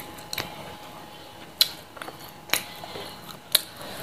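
Eating sounds up close: sharp wet lip smacks and mouth clicks while chewing a mouthful, about four of them roughly a second apart.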